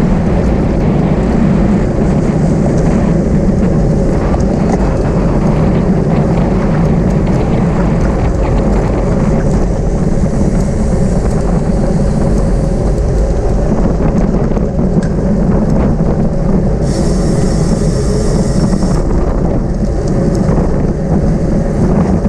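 Steady, loud wind buffeting a camera microphone on a bicycle moving at racing speed. About three-quarters of the way through, a brief higher-pitched hiss lasts about two seconds.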